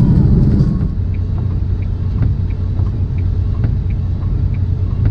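Tractor-trailer cab interior while driving in the rain: steady low rumble of the diesel engine and tyres on wet road, easing slightly about a second in, with faint small ticks about three times a second.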